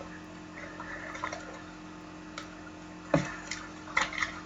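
Trading cards being handled by hand: soft sliding and rustling with a few light clicks and taps as cards are shuffled through a stack, over a faint steady hum.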